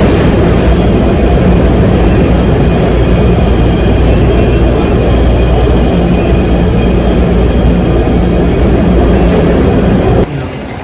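Taipei MRT metro train running, a loud, steady rumble and rush of wheels and motors that cuts off sharply near the end.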